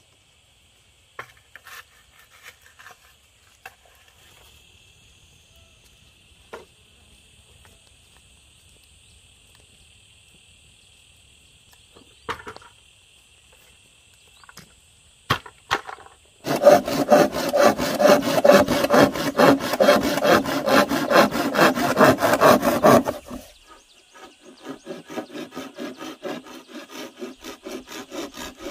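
Rapid, evenly repeated back-and-forth strokes rubbing on wood, loud for several seconds past the middle, then continuing more softly. Before them come a few scattered knocks over a faint, steady insect drone.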